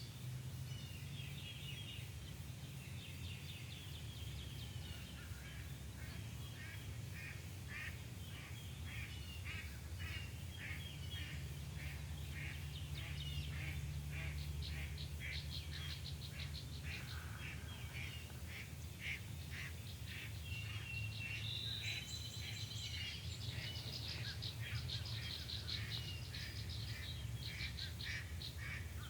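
Wild birds calling: many short, high calls repeated in quick runs and overlapping one another, over a steady low rumble.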